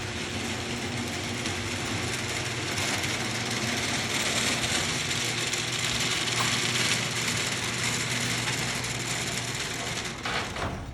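Genie garage door opener running, its motor and drive carrying the door along the rail with a steady mechanical whirr and rattle over a low hum, then cutting off near the end. It is working properly on a newly replaced latch carriage.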